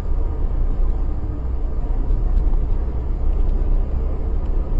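Steady low rumble of a car driving, engine and road noise as picked up inside the cabin by a dashcam.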